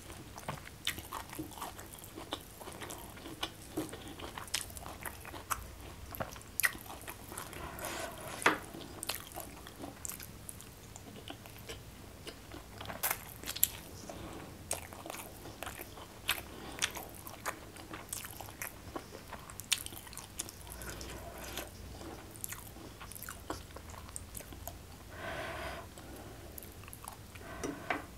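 Close-miked eating sounds: irregular chewing and crunching with many sharp clicks, while food is picked from the plates by hand.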